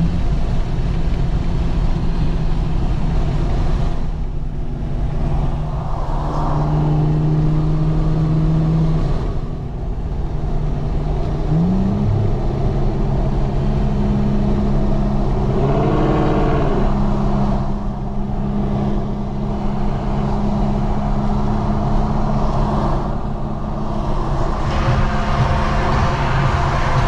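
Infiniti Q50 3.0t's twin-turbo V6 heard from inside the cabin at highway speed, with steady road and tyre noise. The engine pitch rises under hard acceleration just at the start and again about twelve seconds in, then holds steady. A brief rising-and-falling note comes about sixteen seconds in.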